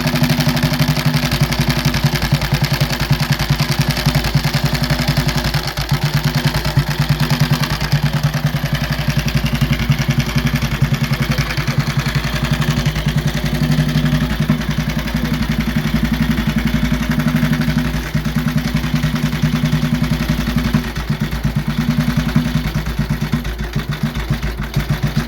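1939 Benelli 500 Sport motorcycle engine idling steadily with an even, rapid exhaust beat; the engine has gear-driven internals.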